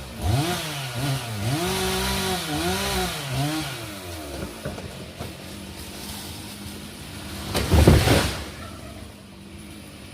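A two-stroke chainsaw revved up and down several times, then settling to a steady, lower engine note. About seven and a half seconds in comes a short, loud, heavy crash.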